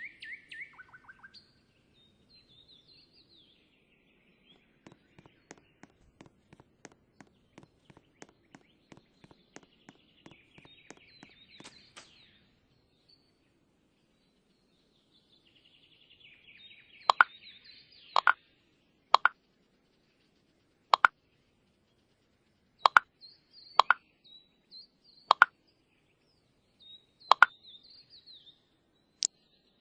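Small birds chirping, with faint quick ticking early on. In the second half come about nine loud, sharp plops, each one to two seconds apart.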